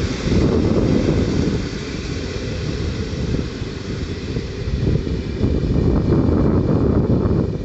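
Electric train running through the station, a low rumble with a faint steady whine, heavily buffeted by wind on the microphone.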